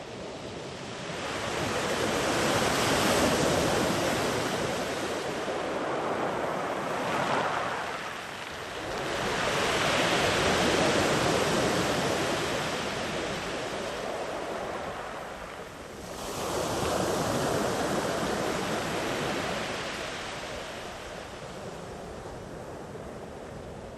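Sea waves rolling in and washing up the beach, gently swelling and pushing far up the shore. Three waves rise and fall away, about one every seven seconds.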